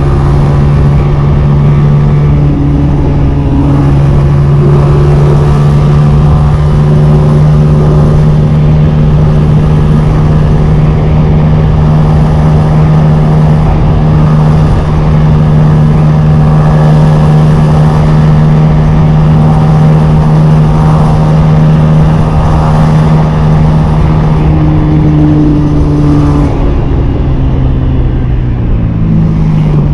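Honda CG 125 motorcycle's single-cylinder four-stroke engine running at a steady, held speed, then dropping in pitch near the end as the throttle is eased off.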